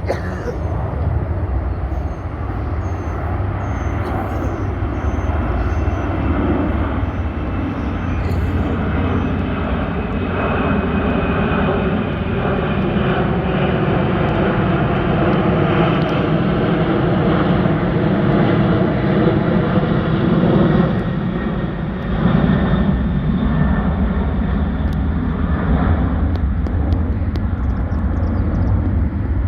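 Boeing 747 freighter's four jet engines roaring at climb power as it passes overhead after takeoff, a loud, steady rumble whose tone slowly shifts as the plane moves across.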